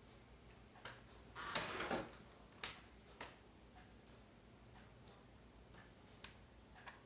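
Small parts and tools being handled: several sharp clicks and taps, with a short scraping rustle about a second and a half in that is the loudest sound.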